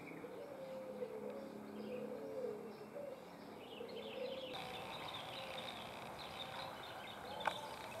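Birds calling: a low warbling phrase repeated several times in the first half, then, after an abrupt change in the background about halfway through, higher chirps, with a sharp click near the end.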